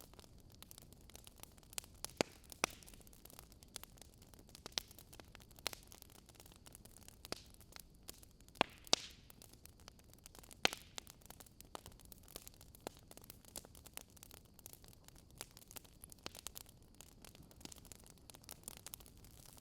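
Wood campfire crackling: irregular sharp snaps and pops of burning wood over a faint steady hiss, a few louder pops about halfway through.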